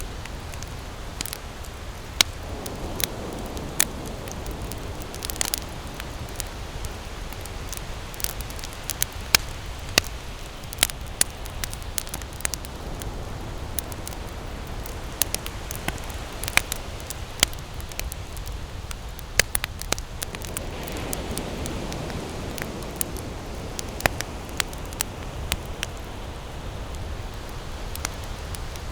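Wood campfire crackling, with irregular sharp pops and snaps, a few of them louder, over a steady low rush.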